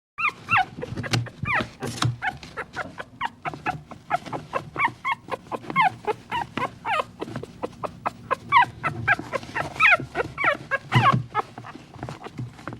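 Dogs whimpering and yipping: many short, high, falling cries in quick succession, often overlapping, with a few dull low thumps among them.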